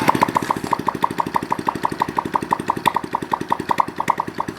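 Honda Chaly's small single-cylinder four-stroke engine running at idle, with a steady, even beat and a sharp regular ticking about seven or eight times a second.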